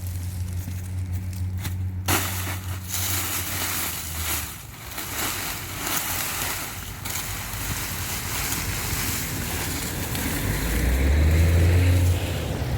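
Old Fordson Major tractor engine running with a low steady drone. From about two seconds in it is largely covered by a loud rushing noise, and near the end the drone comes back louder as the engine works harder.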